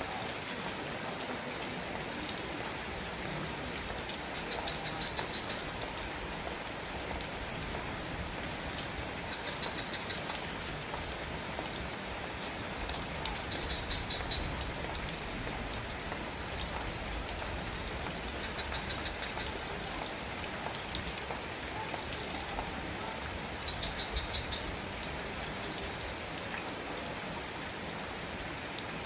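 Steady rain falling, with individual drops ticking on a surface. A short, high trilling call repeats about every five seconds.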